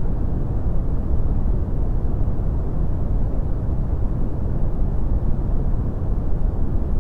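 Brown noise: a steady, deep rushing hiss, strongest in the bass and fading off toward the treble, unchanging throughout.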